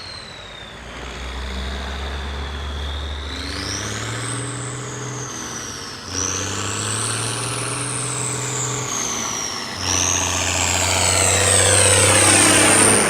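Case IH 1455 XL tractor's turbocharged six-cylinder diesel revving up and down, its turbo whistle rising and falling in pitch with the revs. The whistle climbs three times, the last climb the highest and loudest, near the end.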